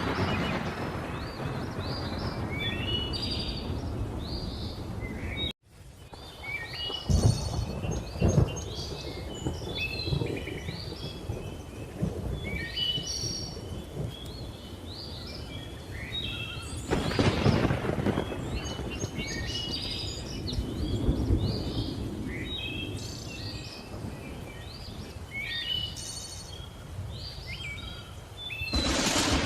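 Thunder rumbling in a thunderstorm with many birds chirping over it. Two sharp cracks of thunder come a couple of seconds after the sound cuts out briefly about five seconds in, and louder swells of hissing rain and thunder rise and fall.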